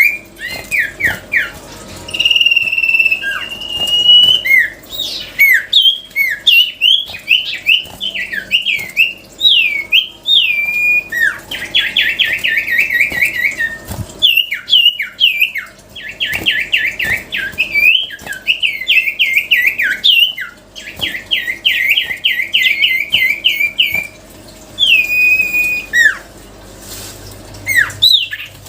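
Cipoh (common iora) singing: clear whistled notes, one long held whistle a few seconds in, and bursts of fast repeated trill notes, phrase after phrase.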